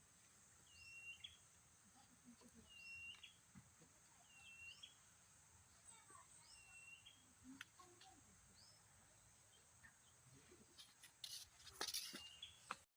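Faint jungle ambience: a bird repeats a short whistled call about once a second, each one dropping in pitch and then holding, over a steady high hiss. A few clicks and rustles come near the end before the sound cuts off.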